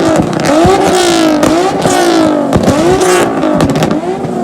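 Car engine revved over and over with quick throttle blips, the pitch climbing and falling back several times in a row, with sharp cracks as each rev drops.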